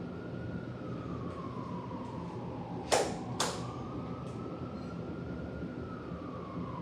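An emergency vehicle's siren wailing, its single tone slowly rising and falling over a steady background rumble. Two sharp clicks come close together about three seconds in.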